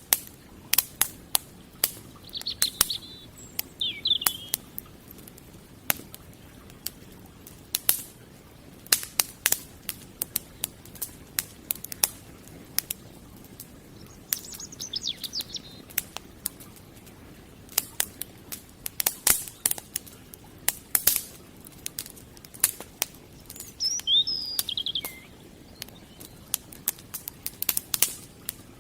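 Burning firewood crackling, with irregular sharp pops and snaps throughout. A bird chirps in short bursts three times, a few seconds in, about halfway through, and near the end.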